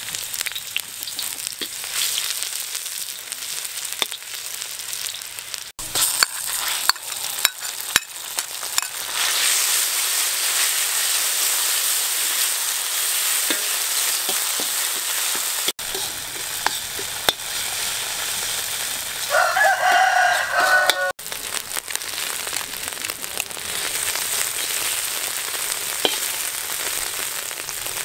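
Oil sizzling in a wok as chopped aromatics and red chili fry, with a metal ladle clicking and scraping against the pan. A rooster crows once, about two-thirds of the way through.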